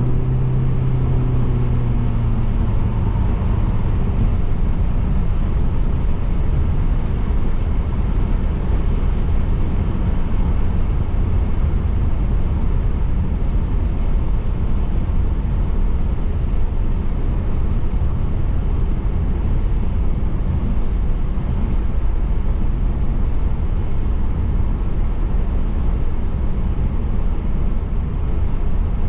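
Car driving along a road: a steady, loud rumble of tyre and engine noise. A humming engine tone fades out in the first couple of seconds.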